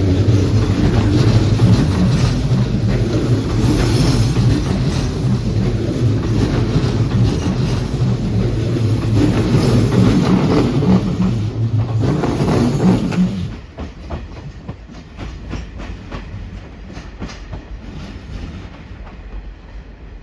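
Keihan electric train running on the rails, a loud steady rumble with wheel clatter. About two-thirds of the way through it drops abruptly to a much quieter rattle of small clicks.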